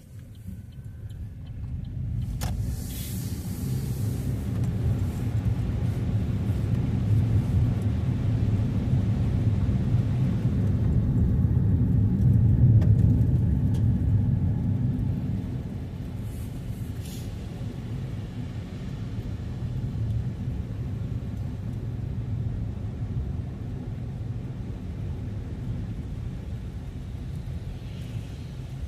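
Car engine and road rumble building as the car pulls away and speeds up, loudest about 13 seconds in, then easing to a steadier, lower drone.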